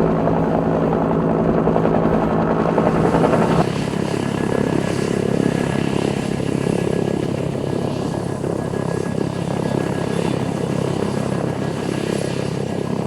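Loud helicopter sound, its character changing abruptly about three and a half seconds in, likely at an edit.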